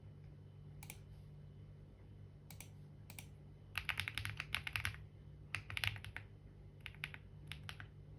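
Typing on a computer keyboard: a few single keystrokes, then two quick runs of clattering keys a little past the middle and a short flurry near the end.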